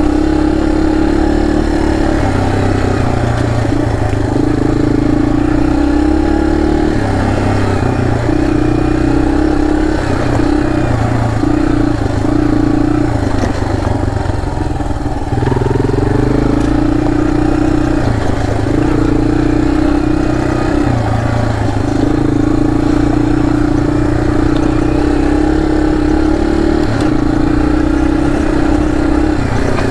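Dirt bike engine running under throttle while riding. The pitch holds for a second or two at a time, then steps up and down with throttle and gear changes.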